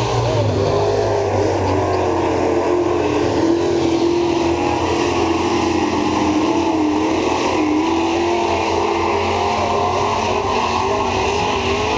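Several dirt-track super truck engines running hard together at full race pace, their overlapping engine notes wavering up and down as the trucks work around the oval.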